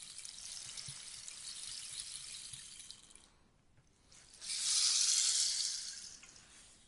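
Rainstick: a pattering cascade of falling pellets runs out about three seconds in. After a short pause, a new, louder rush starts and slowly trails off.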